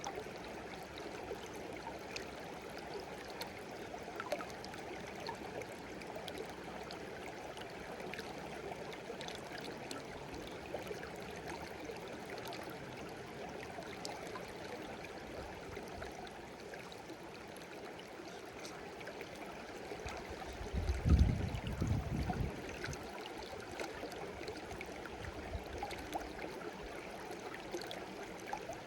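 A shallow stream babbling and trickling steadily, with a brief low rumble about two-thirds of the way through.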